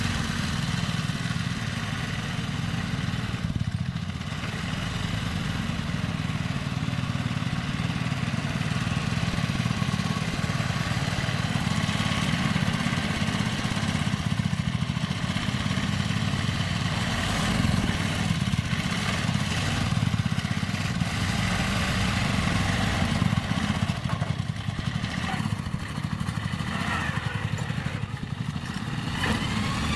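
An engine running steadily at a fairly even speed.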